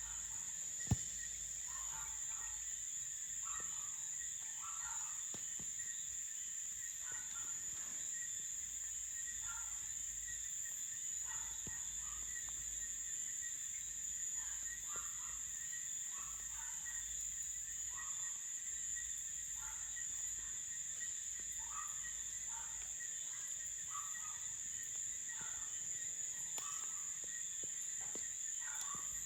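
Night insect chorus of crickets: a steady high-pitched trill, with shorter, lower calls from other animals repeating every second or two. One sharp click or pop about a second in.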